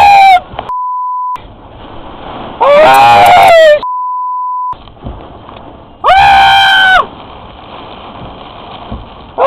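A man screaming in long, high-pitched shrieks, each held about a second and repeated several times, with a steady rushing storm noise beneath. Twice between the screams a steady censor bleep covers his words.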